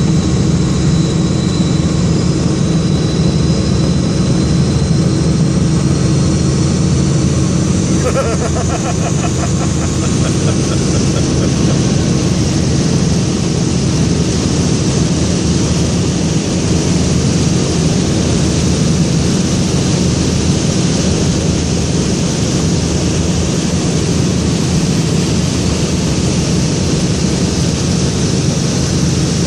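Helicopter in flight heard from on board: a steady, loud drone of rotor and engine with a thin high whine above it.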